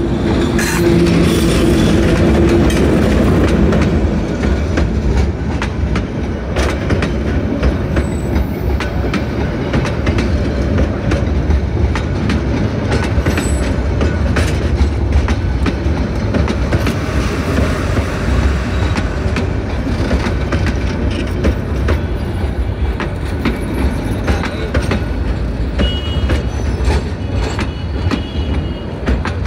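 Narayanganj commuter train running along the track close by: a loud, steady rumble with the wheels clacking over the rail joints throughout.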